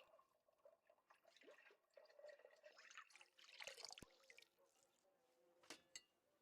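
Faint kitchen food-preparation sounds: a short wet, liquid-like stretch about three and a half seconds in, and a few sharp clicks, two close together near the end.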